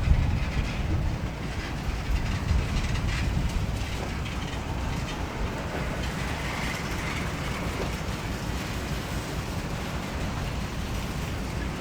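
Freight train cars rolling slowly along the track during a shove, a steady low rumble with a faint clatter of wheels.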